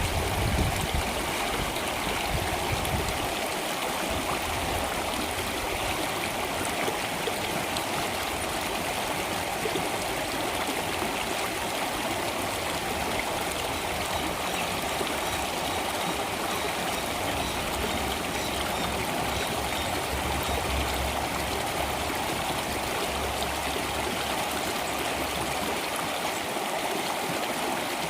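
Flowing water, a steady rush, with a low rumble in the first few seconds.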